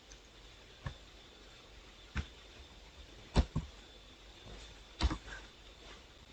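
Computer mouse clicking a handful of times, single clicks a second or more apart with one quick pair in the middle, over faint room hiss.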